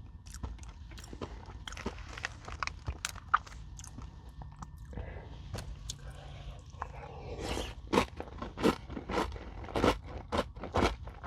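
Close-up chewing of a crunchy Nature Valley granola bar: sharp, crackling crunches that build in the second half into louder, regular chews about twice a second.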